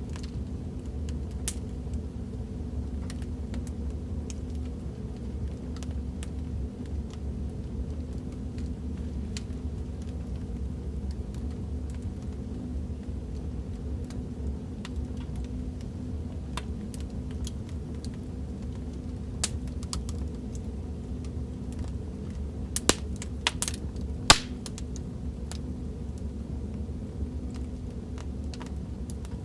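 Wood fire crackling in a fireplace: a steady low rumble of flames with scattered sharp crackles and pops, and a few louder pops a little over twenty seconds in.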